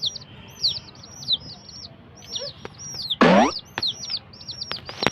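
Baby chicks peeping continuously, several short high rise-and-fall cheeps a second. About three seconds in, a single loud sweep falls steeply in pitch, and a few sharp clicks come near the end.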